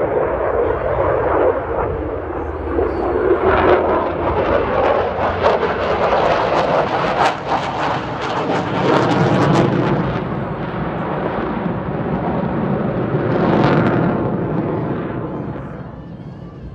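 Jet noise of an F-22 Raptor flying past on its twin Pratt & Whitney F119 turbofans. A steady, loud rush turns rough and crackling in the middle, then fades away over the last few seconds.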